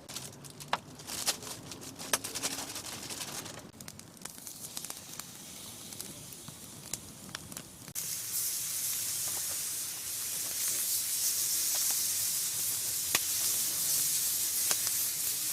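Scattered crackles and clicks, then about halfway through a sudden steady sizzle begins, like food hitting a hot pan on a camp stove, with a few clicks over it.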